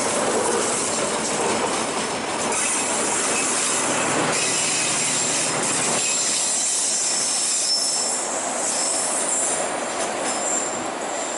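Passenger train moving along the rails with its wheels squealing high and thin over a steady noise of wheels and carriages.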